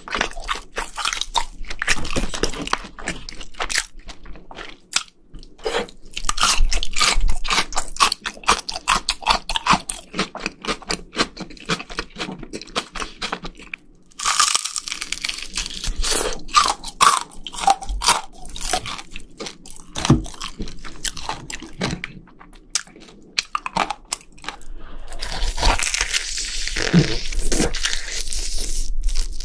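Close-miked biting and chewing of crispy fried chicken: rapid, dense crunching of the fried coating. The crunching is loudest about halfway through and again over the last few seconds.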